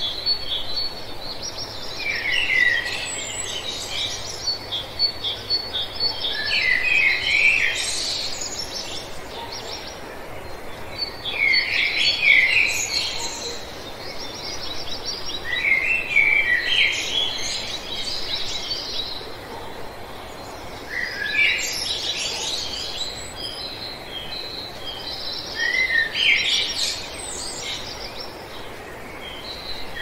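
Birds singing: a phrase of quick high chirps and slurred notes that comes again about every four to five seconds, over a steady background hiss. A high, even trill runs under the song for the first few seconds.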